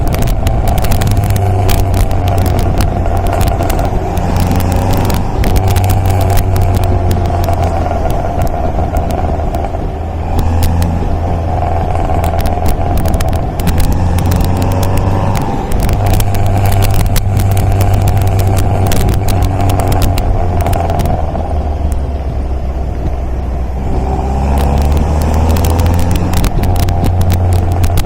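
MGA sports car's four-cylinder engine pulling on the road, its note climbing and falling with revs several times, with brief dips typical of gear changes. Steady road and wind crackle runs underneath.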